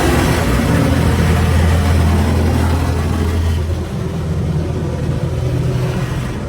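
A car engine running steadily, with a loud even hiss over it that drops away near the end.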